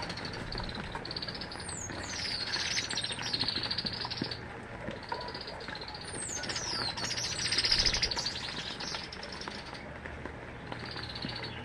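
Small birds chirping and twittering in long bouts of rapid high chatter, with thin whistled notes sliding down in pitch, over a steady hiss of rain.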